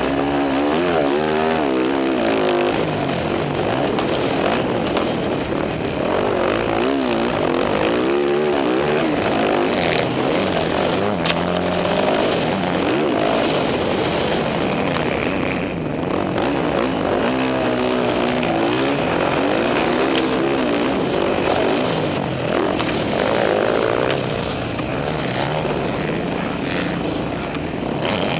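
Dirt bike engine being ridden hard, its pitch climbing and dropping over and over as the rider works the throttle and shifts.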